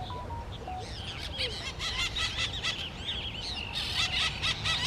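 Wild birds calling in a busy chorus of short, arched chirps, thickening from about a second in, over a steady low hum.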